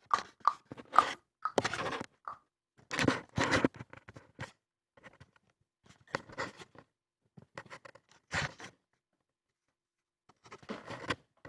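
Irregular rustling, crunching and scraping noises in short bursts with pauses, as of things being handled or moved close by, with a near-quiet stretch late on.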